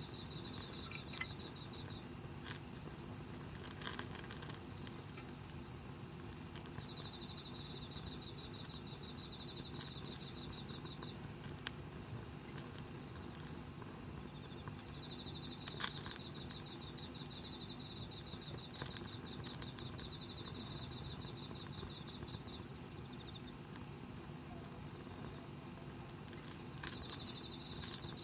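Wood campfire burning with a few sharp scattered pops, while insects chirp in fast high trills that start and stop every few seconds.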